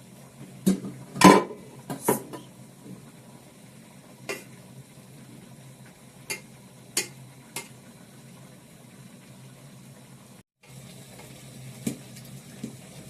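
Spoon knocking and scraping against a cooking pot while stirring chicken stew: a few sharp clinks in the first two seconds, the loudest about a second in, then scattered single knocks, over a low steady hum.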